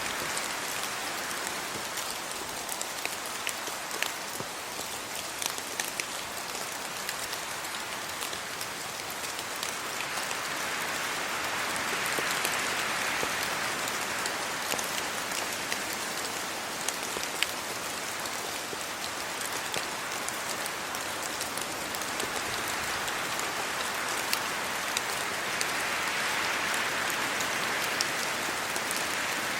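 Steady rain falling on trees and leaves, with many close individual drops pattering through it; the hiss swells and eases slowly as gusts of wind move through the leaves.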